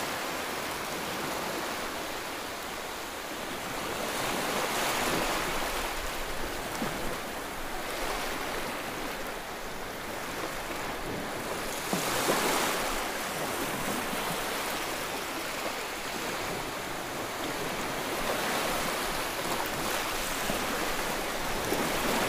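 Sea waves washing against the shore, a steady wash that swells every few seconds.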